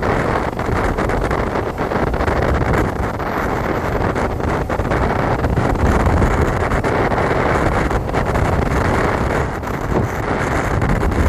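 Wind buffeting the microphone: a loud, steady, rumbling rush with no let-up.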